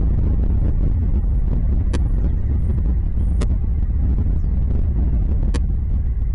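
Steady low wind rumble buffeting the microphone, with three sharp clicks about two, three and a half and five and a half seconds in, and a few faint, brief high chirps.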